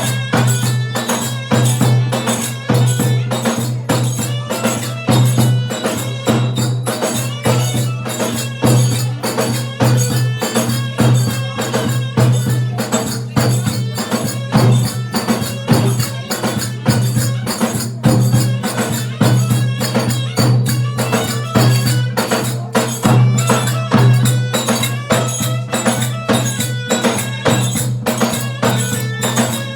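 Turkish folk dance tune (oyun havası) in the Zonguldak Ereğli style, played loud with a fast, even percussion beat over a steady low drone.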